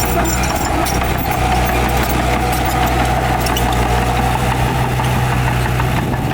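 Heavy earthmoving machine's diesel engine running steadily, with scattered sharp clicks and clanks over it.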